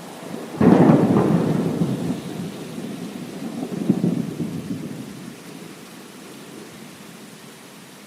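Thunder over steady heavy rain: a sudden loud crack about half a second in, rolling on with a second swell about four seconds in, then fading back to the hiss of the rain.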